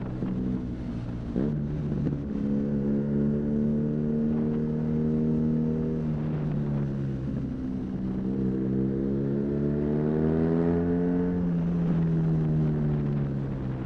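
BMW R nineT's boxer twin engine running through an aftermarket Arrow high-mounted exhaust while riding along: steady pitch with short dips about a second and a half in and around seven seconds, then the revs rise for a few seconds and fall away near the end.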